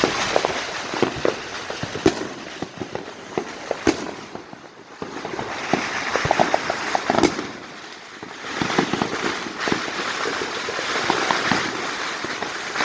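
Many fireworks and firecrackers going off at once: a dense crackle of small pops, with a few louder single bangs now and then. It eases briefly about five seconds in, then builds again.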